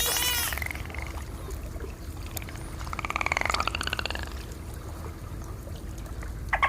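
Dolphin sounds: a rising whistle dying away at the start, then a buzzing train of rapid clicks about three seconds in, and a short, louder click burst near the end.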